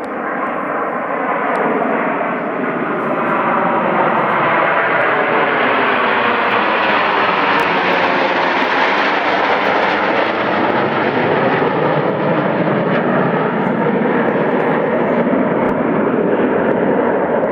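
Fixed-wing aircraft engine noise as a plane flies past. It swells and grows brighter to its loudest about halfway through, then eases only slightly.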